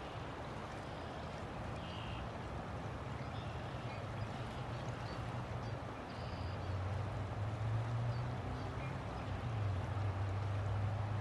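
River water flowing steadily, with a low rumble underneath that grows louder about six seconds in.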